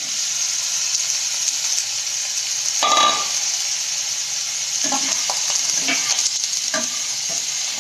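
Cubed pumpkin sizzling in hot oil in a non-stick kadai. There is a short knock about three seconds in, and from about five seconds in a spatula stirs and scrapes the pieces around the pan.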